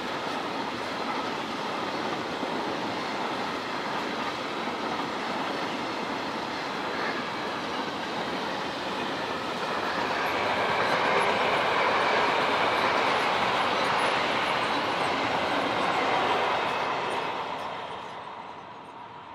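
Freight train of tank wagons rolling past, a steady rush of wheel-on-rail noise. It swells for a few seconds, then fades away near the end as the last covered wagons pass and the train draws off.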